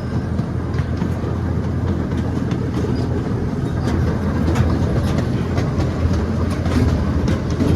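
Miniature train running along its track, heard from aboard: a steady low rumble of the wheels on the rails with scattered light clicks.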